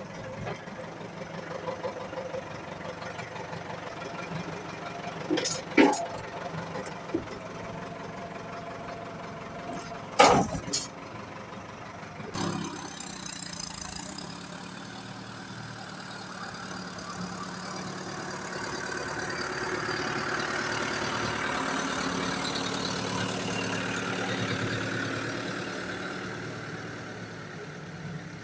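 Ford 7700 tractor's diesel engine idling, with sharp metal clanks a few seconds in and a loud one about ten seconds in, as the trailer is hooked up. The tractor then pulls away: the engine noise grows louder and fuller, then eases off near the end.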